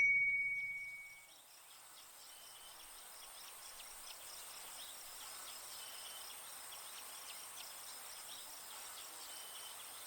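A bell-like chime rings and fades over the first second. It gives way to a steady nature bed of birds chirping in short repeated calls, insects buzzing and a forest stream.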